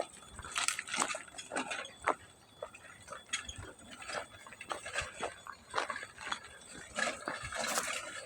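Footsteps crunching on loose railway ballast stones, irregular steps a couple of times a second.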